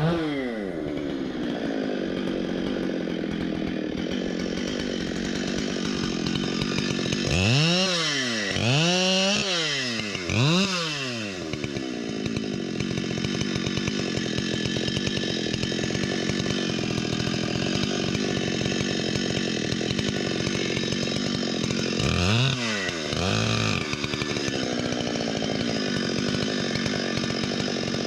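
Chainsaw running under load while ripping a cut into a stump, its engine speed rising and falling three times around eight to eleven seconds in and twice more a little past twenty seconds.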